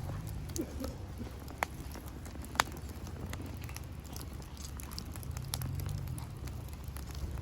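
Wood bonfire crackling, with scattered sharp pops, the two loudest about one and a half and two and a half seconds in, over a low steady rumble.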